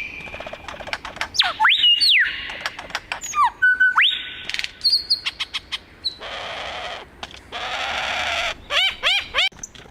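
Male superb lyrebird singing his courtship display song: a rapid, varied string of loud whistles, sweeping notes and clicks, much of it mimicry of other birds. A buzzing stretch comes near the middle, then a quick run of repeated falling notes near the end.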